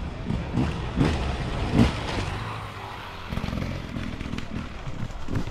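Off-road enduro motorcycle engine revving in repeated short bursts as the rider works the throttle. The loudest spikes come about one and two seconds in.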